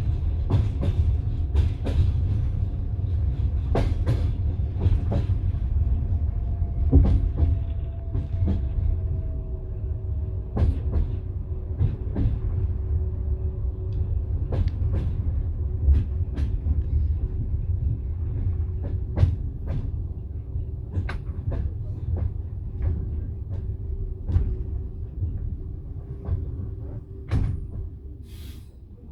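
Passenger train carriage running on the rails: a steady low rumble with irregular sharp clacks and knocks from the wheels over the track. It grows quieter over the last few seconds.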